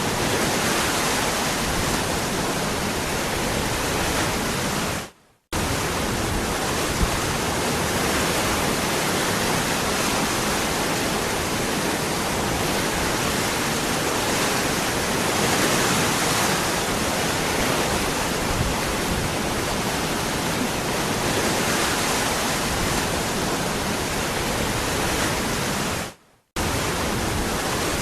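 Waterfall rushing in a steady, dense roar of falling water. Twice the sound cuts out for a split second and comes straight back.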